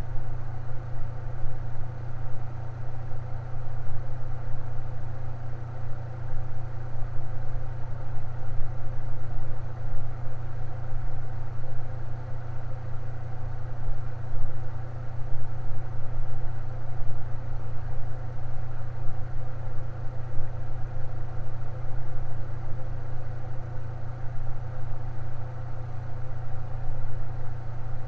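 Electric fan running steadily: a constant low hum with a fainter, even whir above it.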